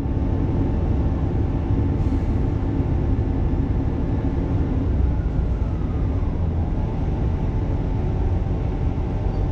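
Diesel multiple-unit passenger train running at speed, heard from inside the carriage: a steady low rumble of the wheels on the track with a few steady hums, and a faint whine that falls slowly in pitch about midway.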